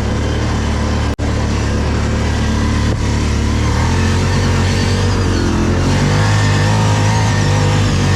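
ATV engine running steadily, its pitch stepping up about four seconds in as it speeds up. The sound drops out for an instant about a second in.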